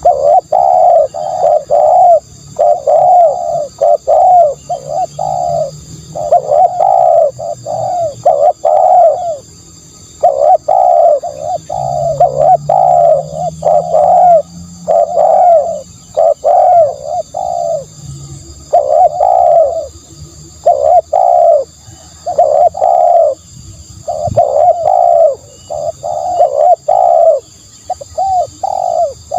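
Spotted dove cooing, a decoy call: a mellow coo repeated in groups of three to five notes, phrase after phrase with short pauses between.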